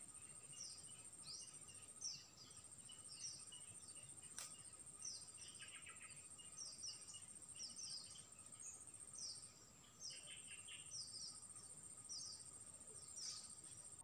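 Faint forest birdsong: a small bird repeats short falling chirps about every half second, and lower chirps come twice, near the middle and about three-quarters of the way through. A steady high insect whine runs underneath.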